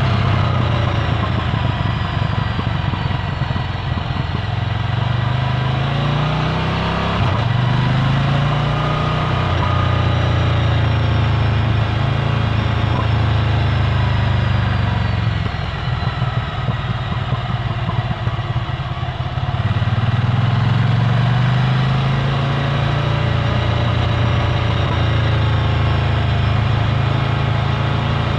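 Ducati Scrambler Full Throttle's air-cooled L-twin engine running through a Termignoni exhaust while riding. The engine note climbs and drops several times as the rider accelerates and eases off.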